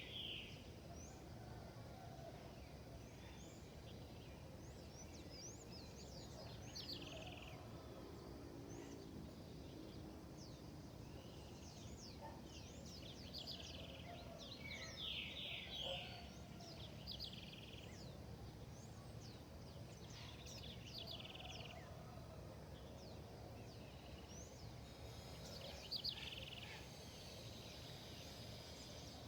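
Faint outdoor ambience of several birds calling and chirping: short, quick notes and trills come in bursts, over a low steady background hum.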